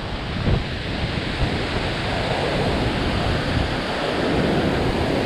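Strong wind rushing and buffeting the microphone in a steady noisy rumble.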